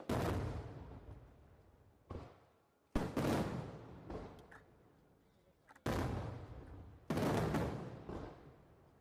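Aerial fireworks shells bursting high overhead: about five booms a second or two apart, the second one weaker, each trailing off in a long rumbling echo.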